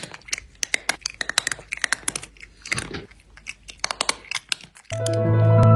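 A cat chewing a snack close to the microphone: quick, irregular crunching and clicking bites. Near the end, background music with mallet-percussion tones comes in.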